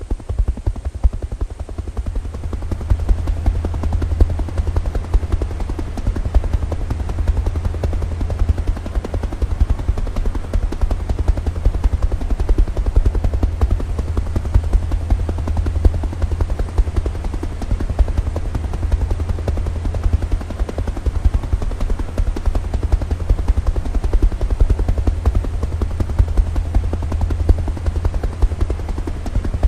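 Helicopter rotor chopping steadily in a fast, even beat over a deep engine and rotor throb.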